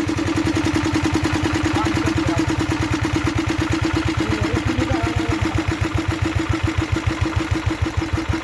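Kirloskar diesel engine running with a rhythmic chugging beat that slows and spreads out in the second half.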